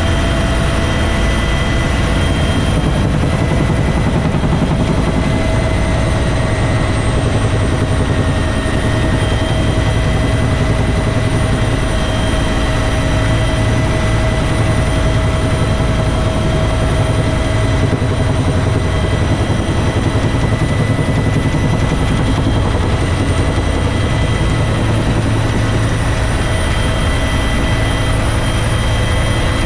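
Bell UH-1 Huey helicopter in flight: a loud, steady rotor beat with a high turbine whine held over it.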